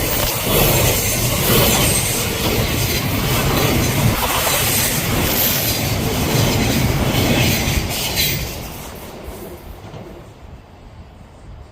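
Odakyu Line electric train running past on the rails, its wheel and rail noise loud, then fading away after about eight seconds.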